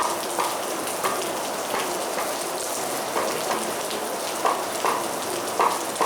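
Heavy rain falling steadily, with separate louder drops striking close by irregularly, about one every second.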